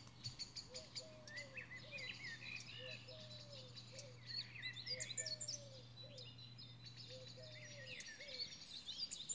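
Faint birdsong: many small birds chirping in quick, overlapping calls, with a lower falling call repeating about once a second. Under it runs a steady low hum that stops shortly before the end.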